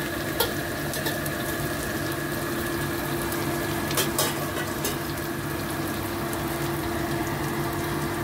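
Shallots, garlic and red chillies sizzling steadily as they fry in hot oil in a steel wok. A few short clicks of the metal spatula against the wok come near the start and about four seconds in.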